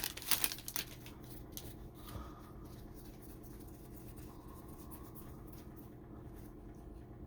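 Faint sliding and scratching of trading cards being flipped through by hand, with a few sharper clicks in the first second.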